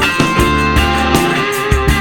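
Rock band music: a guitar part over drums and bass, with no singing.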